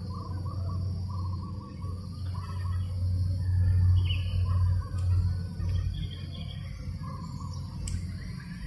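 Birds calling in short repeated chirping phrases over a low wind rumble on the microphone, which swells about halfway through.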